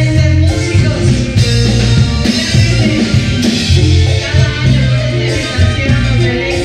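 A tropical band playing a slow romantic number, with electric bass, drum kit, congas, keyboards and electric guitar over a steady beat.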